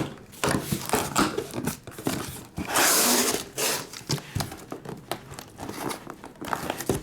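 Cellophane wrap being torn and crumpled off a sealed trading card box: a run of crackling rustles, the longest and loudest tear about three seconds in.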